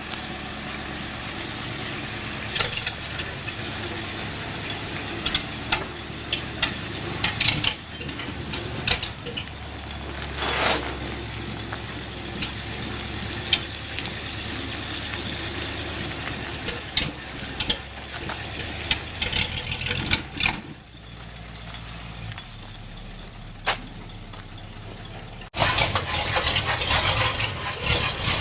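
Engine noise from a 1946 Chevrolet cab-over truck's 235 inline-six, steady with many scattered clicks and knocks. About three-quarters of the way through it drops quieter, then near the end it turns suddenly much louder and harsher.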